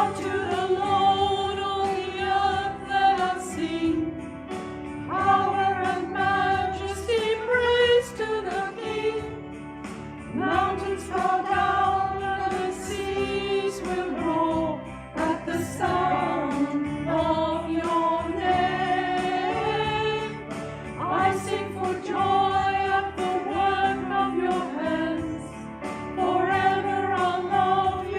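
A small singing group singing a worship hymn in phrases of a few seconds each, over steady instrumental accompaniment.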